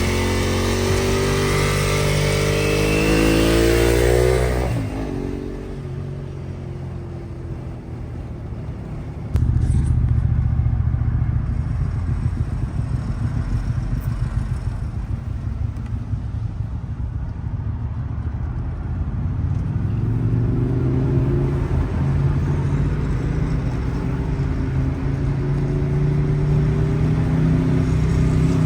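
Ducati 1098R's L-twin engine through a Termignoni full racing exhaust, held at raised revs with the pitch climbing for about four seconds, then dropping back and running quieter. About nine seconds in, a loud deep rumble cuts in suddenly, and from about twenty seconds the revs climb slowly again.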